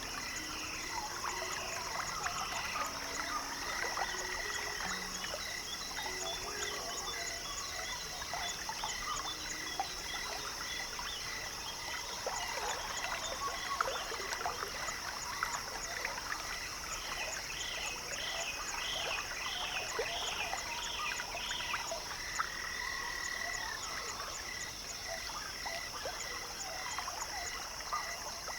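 Evening chorus of frogs and insects: a steady high-pitched insect drone with fine ticking, an evenly pulsed call repeating throughout, and a short run of rising-and-falling notes about two-thirds of the way through.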